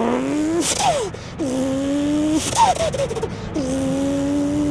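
A man's mouth imitation of a single-turbo Toyota Supra MK4 2JZ engine accelerating through the gears. A rising rev breaks into a turbo blow-off hiss and a pitch drop at each shift, twice, then settles into a held drone.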